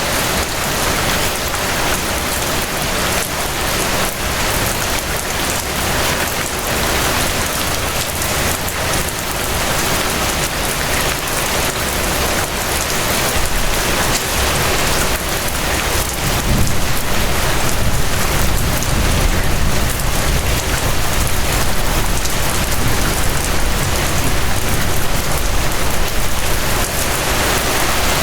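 Steady rain falling, an even hiss of many drops, with a low rumble swelling in about halfway through.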